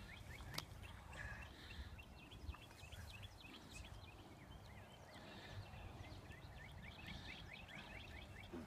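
Faint bird song: runs of quick, short, high chirps, several runs in a row, over a low wind rumble.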